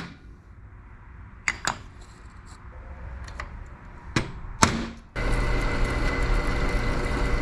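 A few sharp knocks and clicks of tools on metal, then a loud, steady mechanical running noise with a hum that starts abruptly about five seconds in.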